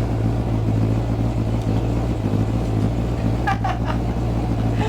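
The supercharged 427 LSX V8 of a 1991 GMC Syclone pickup running at a steady low speed, a constant low drone heard from inside the cab.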